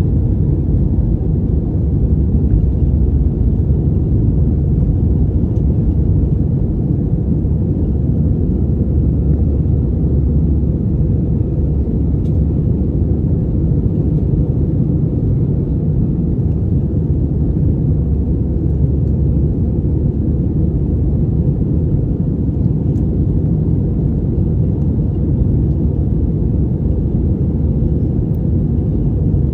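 Cabin noise inside an Airbus A320-200 in flight: a steady, deep rumble of the engines and the airflow past the fuselage, with almost nothing in the higher range.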